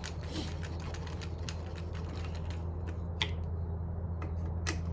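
Irregular small clicks and taps of tools and metal parts being handled while a Stihl BR340 leaf blower is put back together, with two sharper clicks in the second half. A steady low hum runs underneath.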